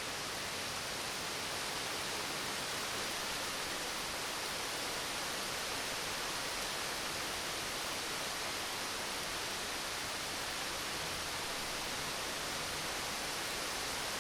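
Steady rain falling, an even hiss with no thunder rumble or other event standing out.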